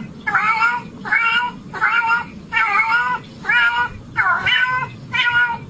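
A cat meowing over and over in short, high calls, about two a second at a steady pace.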